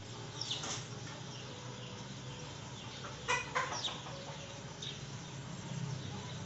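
Birds calling in the background: a few short, falling chirps, with a louder call about three seconds in, over a steady low hum.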